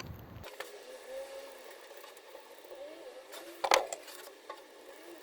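A single sharp knock about three and a half seconds in, over a faint wavering hum.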